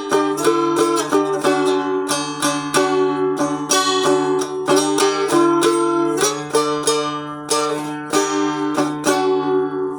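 Fretted dulcimer-type instrument tuned D-A-D, strummed repeatedly: a melody moves over a steady low drone of the open strings.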